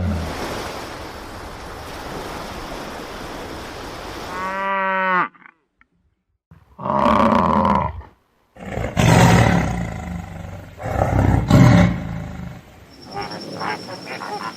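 Lion roaring and growling in several separate takes: a long rasping growl, a short pitched call, then loud roars that start and stop abruptly with brief silences between, and a quick run of short calls near the end.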